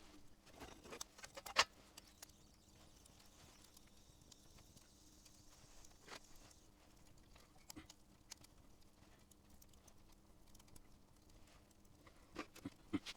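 Campfire crackling: faint, scattered pops and snaps of burning wood, the sharpest about a second and a half in and a quick cluster near the end.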